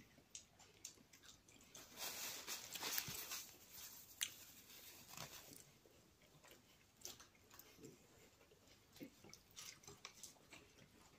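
Faint, close-up chewing of a soft apple doughnut, with wet lip smacks and mouth clicks scattered throughout. About two seconds in there is a louder breathy hiss lasting over a second, and a sharp click follows soon after.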